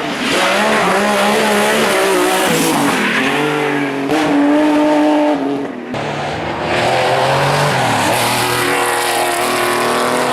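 Rally car engine at full throttle on a special stage, revs climbing and dropping through gear changes. About six seconds in the sound breaks off abruptly and another run with rising revs follows.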